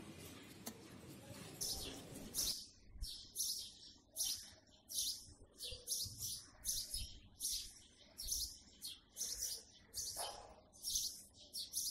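A small bird chirping over and over, short high chirps coming evenly about three every two seconds, starting a little under two seconds in. Before that there is a steady background hiss, which cuts off suddenly about two and a half seconds in.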